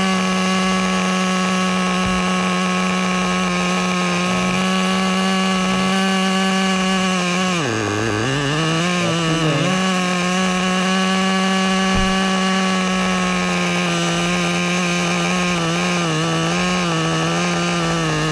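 Small single-cylinder nitro (glow-fuel) engine of a Traxxas Nitro Rustler RC truck running steadily at a high, buzzing pitch. About eight seconds in the revs sag sharply and then pick back up, and near the end the pitch wavers slightly.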